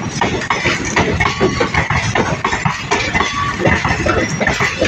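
Passenger train coaches rolling past at speed, with a dense, irregular clatter and rattle of wheels on the track.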